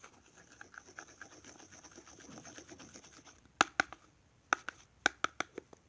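A utensil stirring thick hand soap in a mixing bowl, scraping with quick rapid scratches. In the second half come several sharp clicks as the utensil knocks against the bowl.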